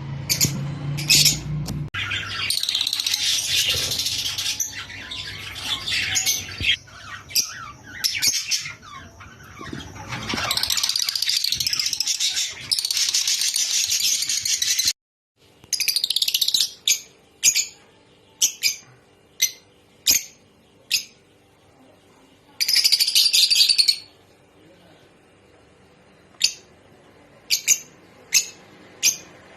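Lovebirds chattering and calling, given as their mating calls. A dense run of shrill, high chatter comes first. After a brief cut, separate sharp squeaks follow about once or twice a second, with one more short burst of chatter near the end.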